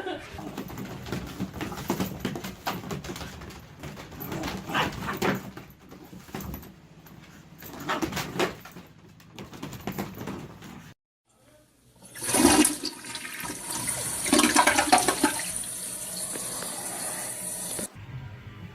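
A loud rush of water, like a toilet flushing, lasting about six seconds and stopping abruptly near the end. Before it come irregular short knocks and rustles.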